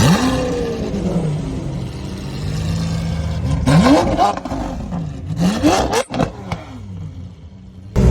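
Lamborghini Aventador SV's V12 with a Capristo exhaust revving three times: the engine pitch climbs at the start, again about three and a half seconds in and again about five seconds in, with crackling on the later two runs. After that it falls away to a quieter low note.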